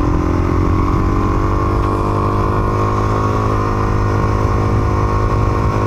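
Motorcycle engine running under steady throttle, its pitch rising slightly over the first few seconds and then holding steady.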